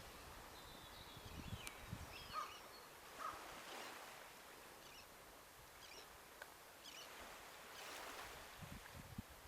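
Faint, scattered small-bird chirps and calls over a soft, steady hiss of wind and gentle waves, with a few brief wind puffs on the microphone, a cluster of them near the end.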